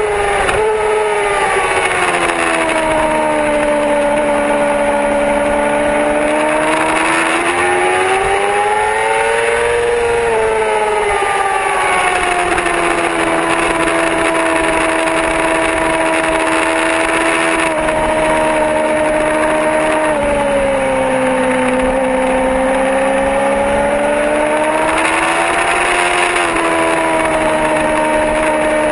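Yamaha R6 sportbike's inline-four engine running at speed, its pitch rising and falling gradually through the lap, with a couple of sudden steps in pitch. A steady hiss runs under it.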